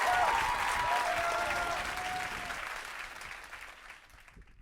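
Audience applause with a few whistles, fading out to silence near the end.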